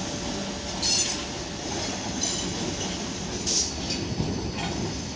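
Electric train moving slowly through the station with a steady rumble, and brief high-pitched wheel squeals three times.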